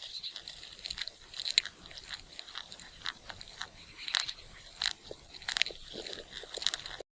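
Irregular short, crisp crunching clicks, a few a second, over a faint steady high-pitched tone.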